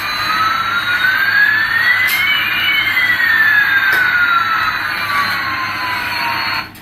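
Toy Airbus A380's electronic jet-engine sound effect: a rushing hiss with a whine that climbs in pitch for a couple of seconds, then sinks slowly, and stops abruptly near the end.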